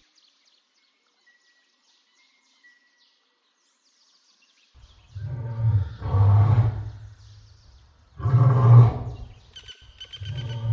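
Tiger roaring: after a few seconds of faint background with birds chirping, deep roars start about five seconds in and come in three bouts, the first drawn out in two pulses and the last starting near the end.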